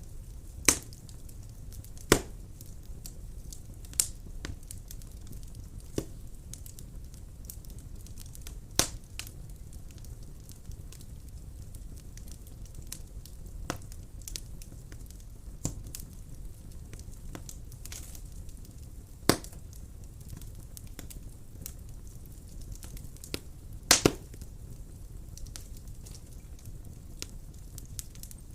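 Wood fire burning in a fireplace: a steady low rumble of the flames with sharp, scattered crackles and pops every second or two, a double pop the loudest.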